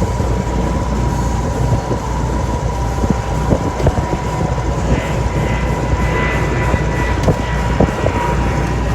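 Steady low rumble of a sailing ketch under way, with a constant high whine and scattered small knocks.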